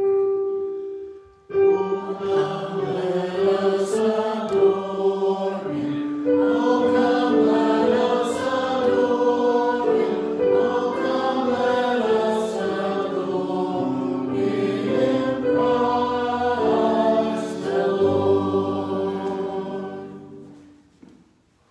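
A choir singing a short sacred piece in parts, moving in held chords. It opens on a single held note, and the singing fades out about a second before the end.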